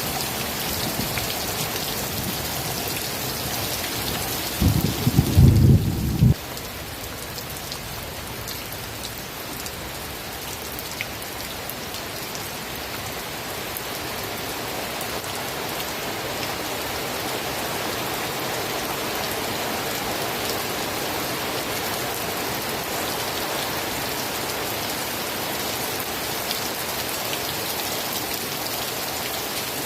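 Steady rain falling, an even hiss. About four and a half seconds in, a loud low rumble lasts under two seconds and cuts off suddenly, leaving the rain a little quieter before it builds back.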